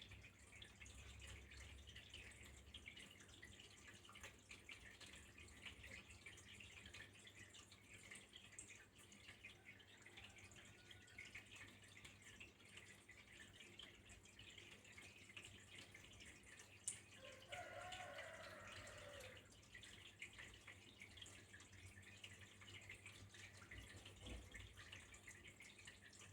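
Faint, steady trickling and dripping of running water. A sharp click about two-thirds of the way in is followed by a brief pitched sound lasting a couple of seconds.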